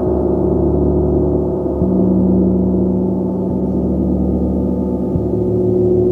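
A gong played continuously, a dense wash of overlapping ringing tones kept going by soft, even strikes about every second and three-quarters.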